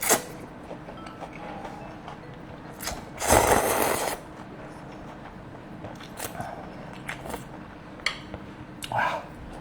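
A loud slurp of cold noodles about three seconds in, lasting under a second, with small clicks and taps of eating around it and a shorter slurp or mouth sound near the end.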